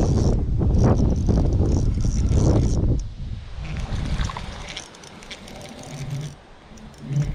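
Wind buffeting the microphone in a heavy low rumble that drops away about three seconds in, leaving faint outdoor background with a few light clicks.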